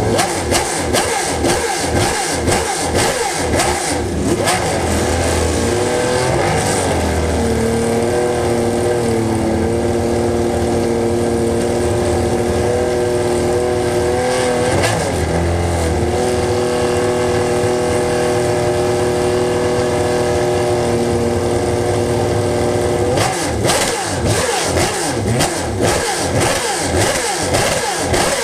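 Performance engines revving hard in quick repeated blips, then settling to a steady held note for about fifteen seconds before the rapid revving returns near the end.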